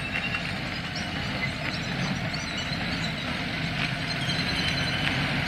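Garbage truck's engine running as it drives into the dump, a steady low rumble growing slightly louder.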